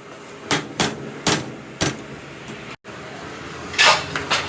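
A cooking utensil knocks sharply against a hard surface four times, roughly half a second apart. Near the end comes a louder, brief scraping clatter and a couple of smaller knocks.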